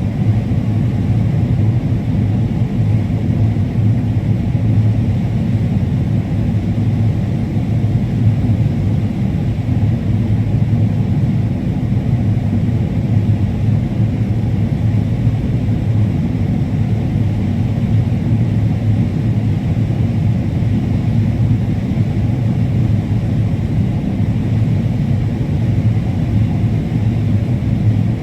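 Combine harvester running steadily while harvesting corn: a constant, even low drone with no breaks or changes.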